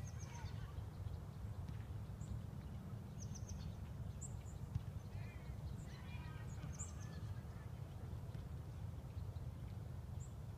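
Wind rumbling on the microphone, with short high bird chirps now and then.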